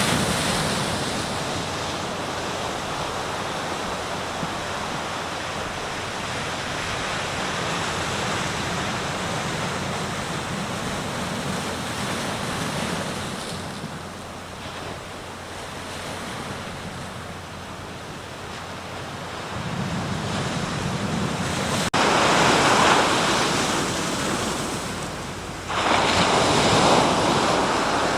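Sea waves breaking and washing on the shore, the surf swelling and fading, with louder breakers near the end.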